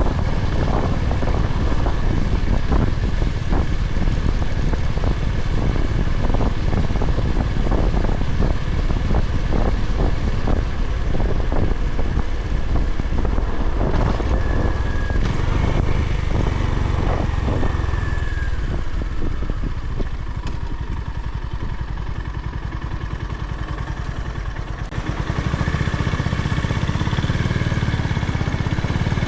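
Honda GB350's air-cooled single-cylinder engine running on the road, with wind buffeting the microphone. The engine and wind quieten for several seconds about two-thirds of the way through, then the sound picks up again near the end.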